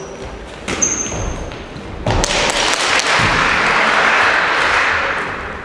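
A basketball thud with a short sneaker squeak in a gym, followed about two seconds in by several seconds of loud, even rushing noise that fades near the end.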